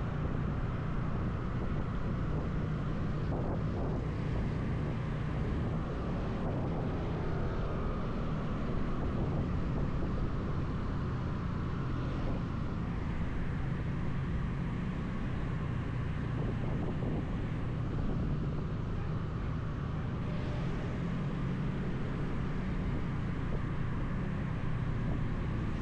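Motorcycle riding along with its engine running at a steady, even drone and continuous road noise.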